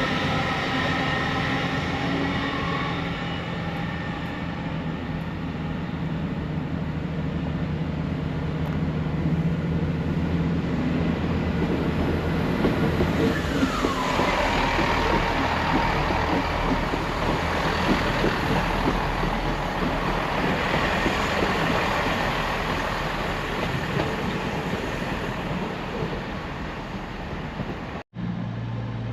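A train running through a station: a low, steady engine drone, then a growing rush of wheel and running noise as it passes, with a short falling whine about halfway. The sound breaks off abruptly near the end.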